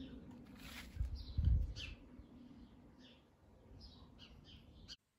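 Small birds chirping on and off in a garden, with a brief low rumble about a second in.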